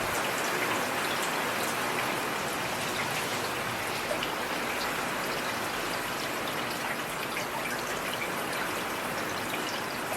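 Heavy rain falling steadily, an even hiss with scattered sharp drops striking close by.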